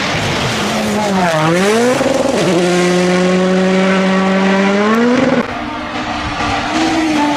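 Rally car engine at full throttle. The note dips and climbs again around a gear change, then holds steady flat out for about three seconds. About five seconds in the driver lifts: the engine note drops suddenly and gets quieter, then runs on at a lower steady pitch.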